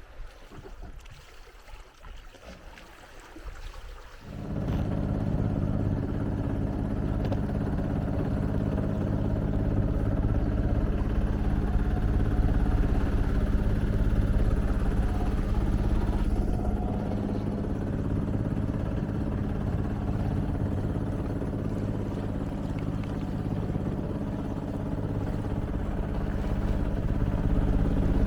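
A sailboat's inboard engine running steadily at a constant speed. It comes in abruptly about four seconds in, after faint water and wind noise.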